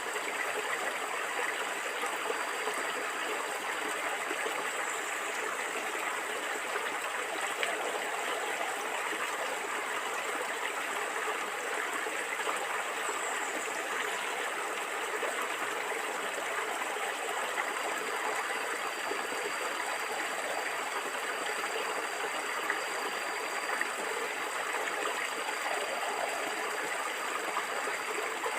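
A stream of water flowing and gurgling steadily.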